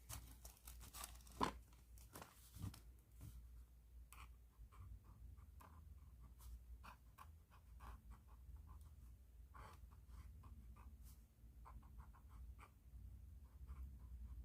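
Pen writing on paper: quiet, scratchy strokes in quick succession, with a louder crinkly rustle in the first few seconds.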